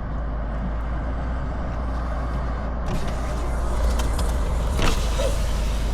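Steady roar of a nearby tornado and its wind, a deep rumble under a noisy rush that grows fuller and hissier about three seconds in, with a couple of faint knocks.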